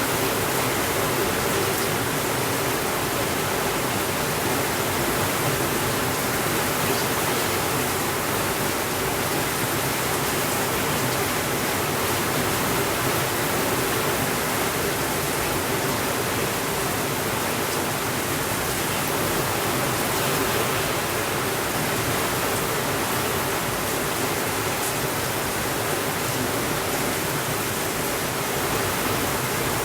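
Steady rainfall: an even, unbroken hiss of rain with no thunder, with a few faint ticks here and there.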